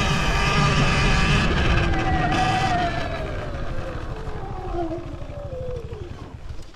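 Sur-Ron Ultra Bee electric motor whining over the rumble of the tyres, steady at first, then falling in pitch and fading as the bike slows down.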